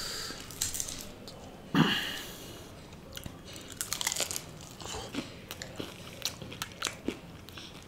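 A person biting into crisp, flaky chilli chur chur naan, with one loud crunching bite a couple of seconds in, then chewing with many small crunchy crackles.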